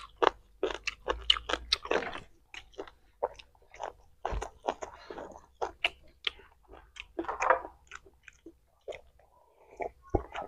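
Close-up eating sounds: two people chewing and biting rooster meat and rice, a run of short, irregular mouth clicks and smacks.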